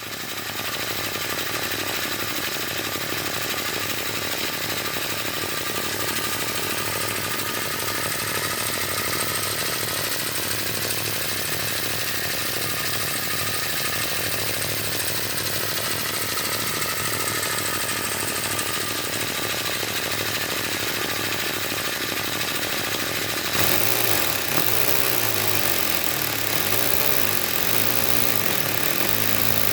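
Three-cylinder compressed-air engine running fast with a rapid, steady clatter over a hiss. About 23 seconds in the hiss grows louder and the low running note begins to waver.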